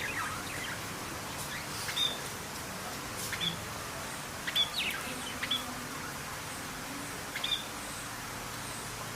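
Songbirds chirping: short, high chirps every second or two, over a steady background hiss.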